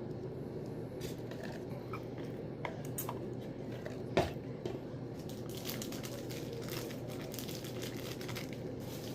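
A person chewing food, with small crunching and crinkling noises over a steady low hum, and one sharp click about four seconds in.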